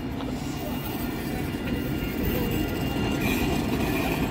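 Tram pulling into the stop, its rumble slowly growing louder, with a thin high wheel squeal setting in about three seconds in.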